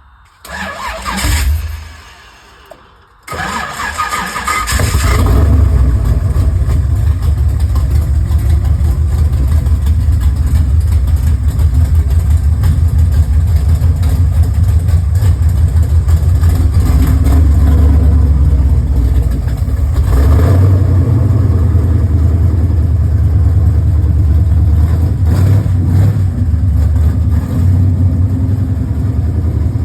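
Car engine starting from cold: after a brief burst it catches about three seconds in and settles into a loud, steady low idle, with a couple of brief revs later on.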